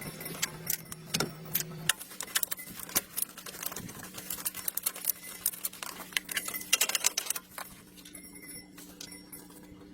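Many irregular light clicks and clinks, densest in the middle and thinning out near the end, over a faint steady hum.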